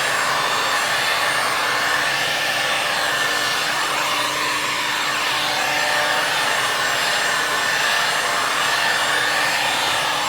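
GPR Star heat gun blowing steadily on a steel car body panel, warming it to drive moisture out of the metal before glue pulling.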